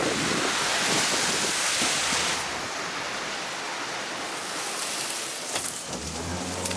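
Rushing wind and water from a motorboat at speed, a loud even hiss that eases a little after about two seconds. Near the end the boat's engine hum comes through underneath.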